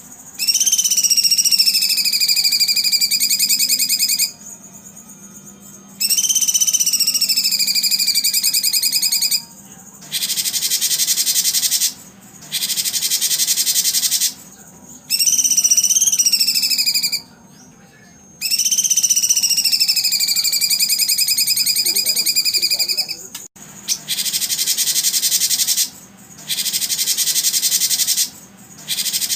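Loud, dense, high buzzing animal calls in repeated bursts of one to five seconds, separated by short pauses. Several of the bursts carry a wailing whistle that falls and then levels off.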